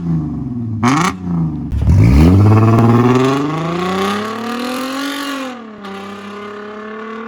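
Porsche Cayenne's 3.2 VR6 engine and valve-controlled exhaust: two quick throttle blips, then a hard acceleration with the engine note climbing steeply. About five and a half seconds in the pitch drops at an upshift, and the engine pulls again in the next gear.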